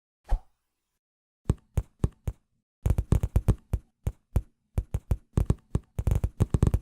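A string of sharp knocks with a dull thud in each, irregularly spaced: one alone at first, then quicker runs that grow dense over the last few seconds.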